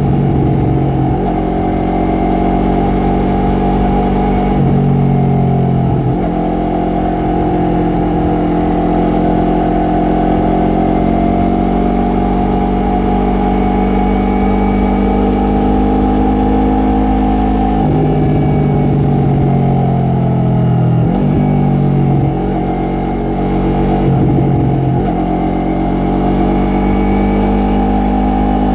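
Yamaha MT-03 motorcycle engine and exhaust under way, its pitch rising and falling repeatedly as the throttle opens and closes, with several abrupt shifts in pitch.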